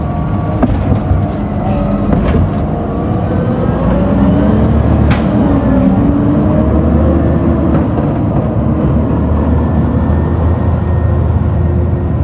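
Garbage truck's engine running loudly and revving, its pitch rising and falling, with a few sharp metallic knocks, the clearest about five seconds in.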